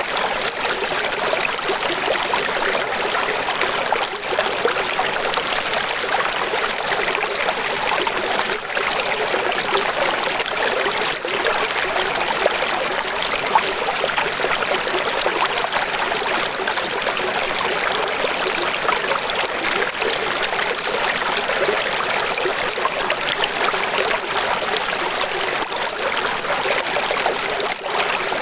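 Running water splashing steadily, an even rush with almost no low end and no surges or breaks.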